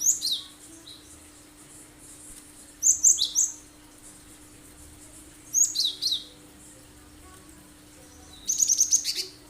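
Cinereous tit (gelatik batu) singing: four loud, sharp phrases of quick, high, falling notes about three seconds apart, the last a rapid run of about eight notes.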